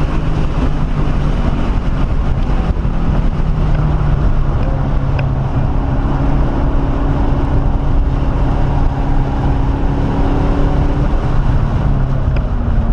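1997 SVT Cobra Mustang's 4.6-litre DOHC V8 running hard on a race track, heard from inside the cabin, together with road and wind noise. The engine pitch steps up about four seconds in and eases down near the end.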